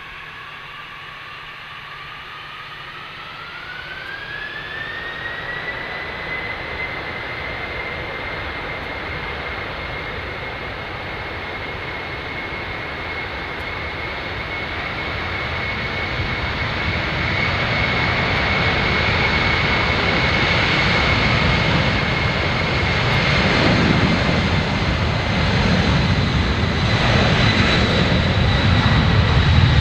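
Jet airliner's engines spooling up, their whine rising in pitch over the first few seconds and then holding steady at high thrust, with the rumble growing steadily louder as the aircraft rolls and draws nearer.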